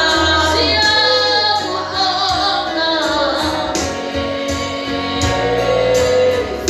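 Gospel worship music: female voices singing over a band with bass and a steady beat.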